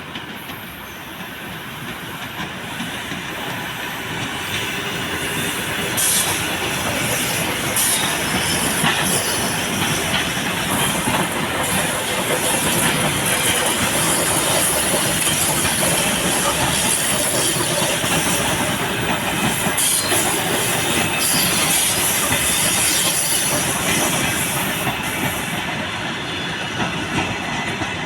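A train passing close by. The wheel and rail noise grows louder over the first few seconds, then holds as a steady rush with repeated clacks over the rail joints, easing off near the end.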